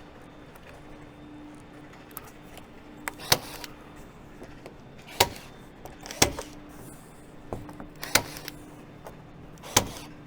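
Staple gun driving staples through cardboard into a wooden target frame: five sharp snaps, spaced one to two seconds apart.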